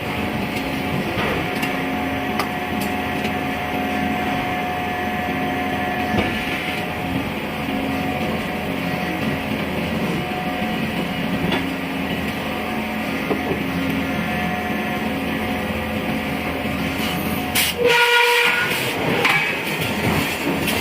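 Heavy machinery running steadily with a hum and a few light knocks. A short, loud ringing tone comes about eighteen seconds in.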